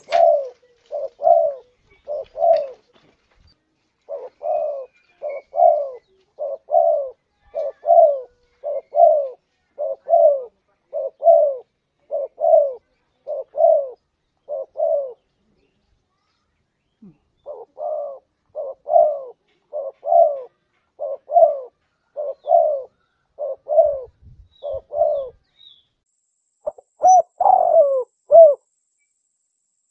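Spotted dove (tekukur) cooing: long runs of short, evenly repeated coo notes, about one and a half a second, broken by a couple of pauses, with a few louder, longer coos near the end.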